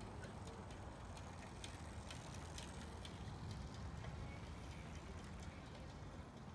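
Faint ambient background: a steady low rumble with many light, irregular clicks and ticks scattered through it.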